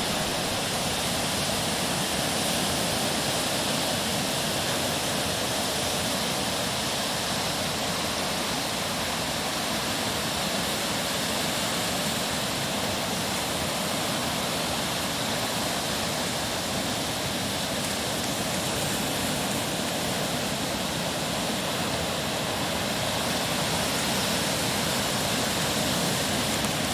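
Large waves breaking on the shore: a steady, unbroken roar of surf with no separate crashes standing out.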